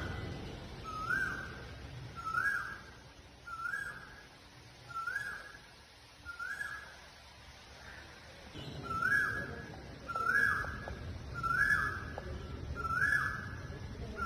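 A bird repeating a short rising whistled call about every second and a half, about ten times, the calls growing louder in the second half.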